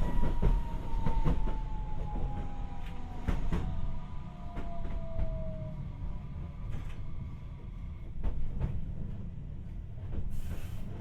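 Tokyu Setagaya Line 300-series tram heard from inside the car while running: low rumble of wheels on rail with scattered clicks over rail joints. A motor whine falls steadily in pitch over the first six seconds and then dies away as the tram slows down.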